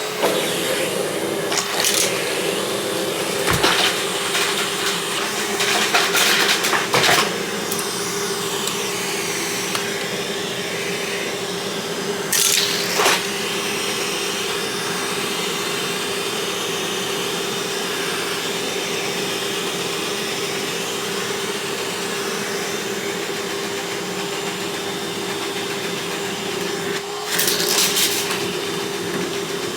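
Vacuum cleaner running steadily with a constant hum. Brief clattering bursts cut in a few times over it.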